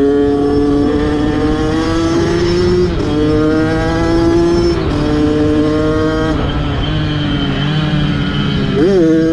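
Kawasaki dirt bike engine running under way, its pitch climbing slowly and dipping twice, about three and six seconds in, with a quick rev up and back down near the end.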